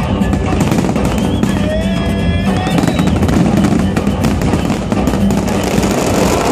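Fireworks crackling and popping in a dense, continuous barrage, with music playing underneath. A short whistling tone cuts through about two seconds in.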